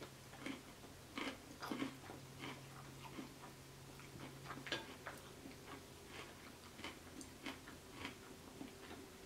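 Faint close-miked chewing and wet mouth sounds of someone eating a creamy bowtie Caesar pasta salad, with irregular smacks and soft clicks of the spoon. A faint steady low hum runs underneath.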